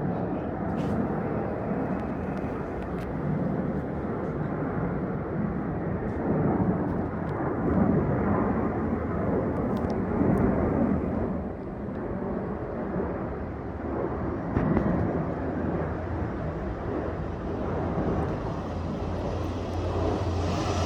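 Aircraft engine noise: a steady low rumble that swells slightly about eight and ten seconds in.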